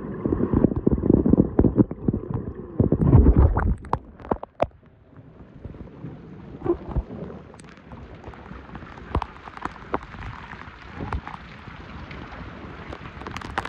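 Heavy rain pouring, with drops striking the soaked phone right at its microphone: loud low buffeting and thuds for the first few seconds, then a steadier hiss of rain with scattered sharp drop hits.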